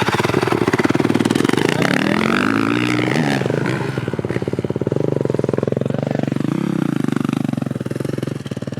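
Dirt bike engine running close by just after starting, with dense even firing pulses, revved up and back down twice.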